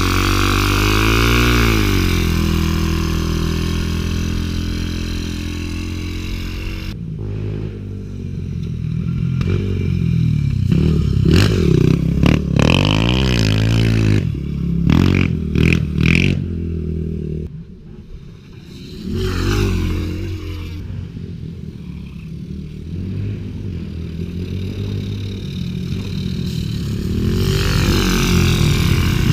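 Small pit bike engine running and being ridden, its pitch rising and falling with the throttle. It eases off to a much lower level about eighteen seconds in, then picks up again.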